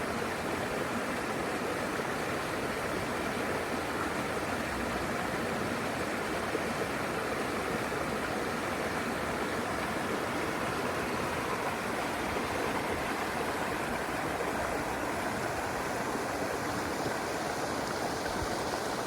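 River water running over rocks, a steady rushing and burbling.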